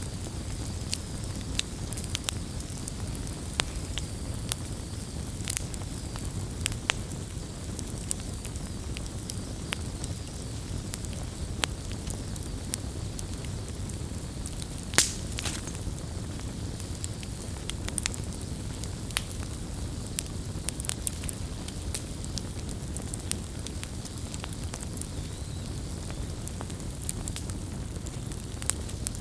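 Wood campfire burning: a steady low rumble of flames with irregular crackles and snaps from the burning wood, and one louder pop about halfway through.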